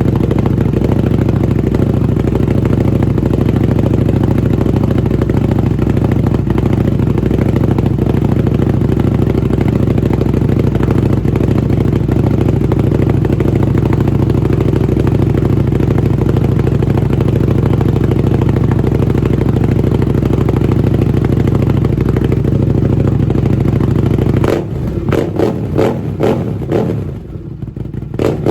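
Buell 1125R's liquid-cooled V-twin running steadily through a Jardine RT-5 exhaust while it warms up. About 25 seconds in, the steady note breaks into an uneven, choppy sound with sharp clatters.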